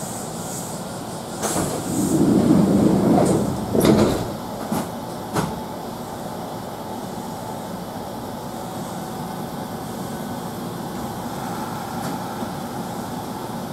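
Kintetsu commuter train's sliding doors closing with a rumble and a few knocks, then the train's steady running noise as it sets off from the station.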